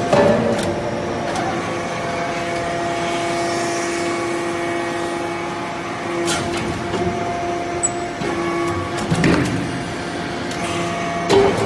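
Metal-shavings baling press running with a steady motor hum, a few sharp clanks sounding over it near the middle and end.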